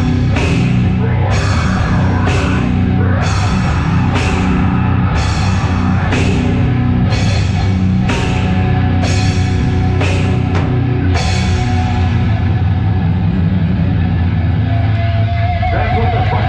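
Live heavy metal band playing loud, with distorted guitar and bass under heavy drum and cymbal hits about once a second. The drum hits stop about two-thirds of the way through, leaving the guitars and bass ringing on, and a wavering held tone, like guitar feedback, comes in near the end.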